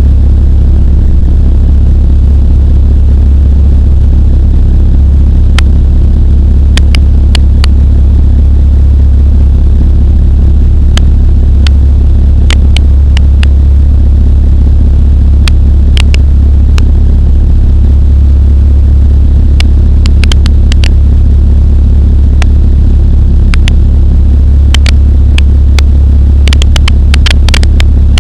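Steady, loud low drone of the Pulsar XP microlight's engine and propeller in level flight. Scattered sharp clicks run through it, more frequent near the end.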